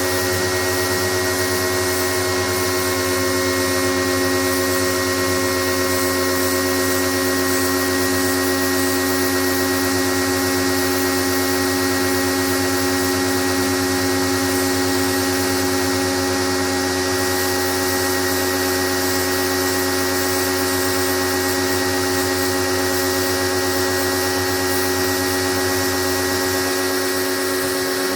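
Pro-Kleen 1600 electric pressure washer running steadily: a constant motor and pump whine with the hiss of the water jet.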